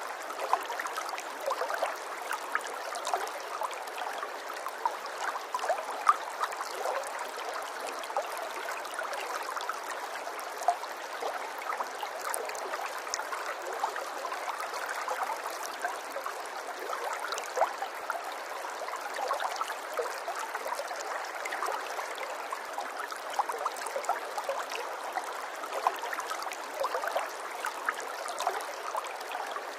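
Water flowing and burbling steadily, like a small stream, with many small splashes and drips over an even rush.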